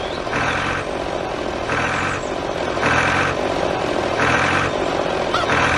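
Tractor engine running, with a buzzing pulse that repeats about every 1.2 seconds while the tractor backs up.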